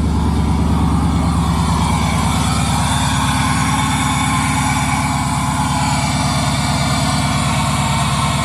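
A 6.2-litre LS3 V8 in a 1975 Camaro, running on E85 and breathing through open headers, idling steadily with rapid, even exhaust pulses while warming up after a cold start.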